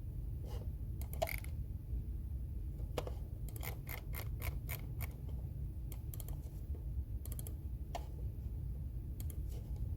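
Typing on a computer keyboard: scattered key clicks, with a quick run of keystrokes around four seconds in, over a steady low background rumble.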